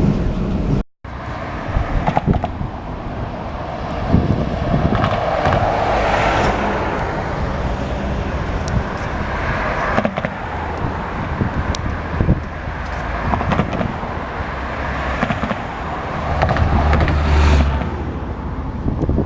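Steady road-vehicle noise, with traffic and engine rumble throughout and a low engine drone swelling near the end.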